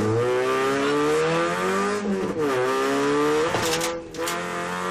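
Opel Astra GSi rally car's engine heard from inside the cabin, revving hard as it accelerates. The engine note drops and climbs again after an upshift about two seconds in, then dips briefly near the end, with a few clicks, as the driver lifts off.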